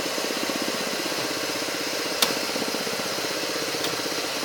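Ford Zetec Rocam 1.0 engine idling with a rapid, even ticking from the canister purge solenoid valve, whose loose, cracked rubber lets air leak out. A sharp click comes about two seconds in.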